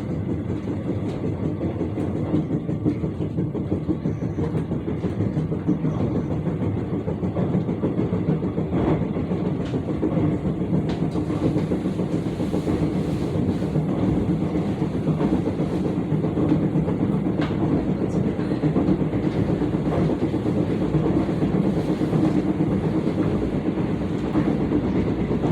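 Running noise inside a Gyeongchun Line electric train at speed: a steady low rumble with a rapid thumping from the wheels, which the uploader puts down to the wheels not having been reprofiled.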